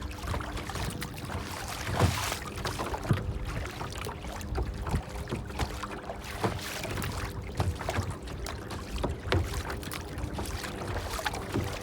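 Water lapping and splashing, with irregular small knocks over a low rumble.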